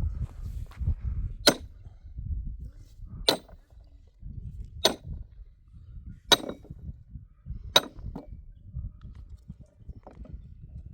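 Five sharp strikes, evenly spaced about a second and a half apart, over a steady low rumble.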